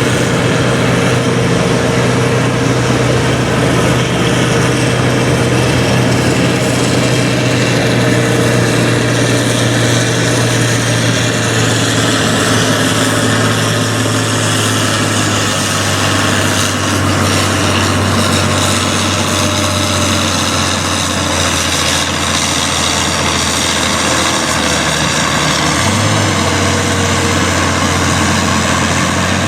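Farm pulling tractor's diesel engine running loud and steady, with one unbroken droning note; the pitch shifts slightly near the end.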